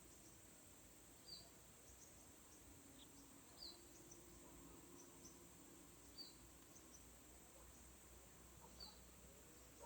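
Faint short high chirps of a small bird, one about every two and a half seconds, over a faint steady high hiss.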